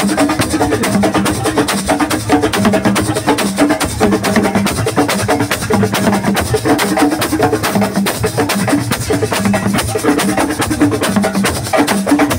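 Assiko band music: a dense, fast percussion rhythm of drum and wood-block-like strikes over a repeating low line of notes.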